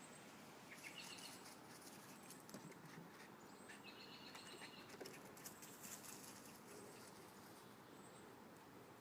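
Near silence: quiet outdoor ambience with a few faint, short, high chirps, about a second in and again around the middle.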